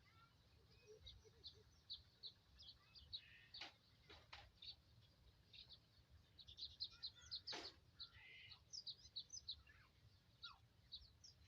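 Faint bird chirping: many short, high chirps repeating throughout, with three sharp clicks in the middle.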